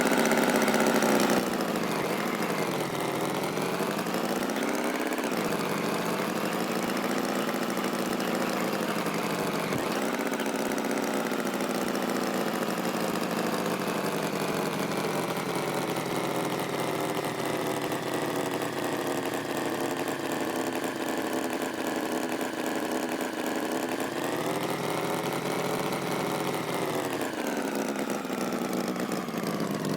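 Tractor engine running steadily, its pitch dipping and rising again a few seconds in, then swelling up and back down near the end as it slows and speeds up.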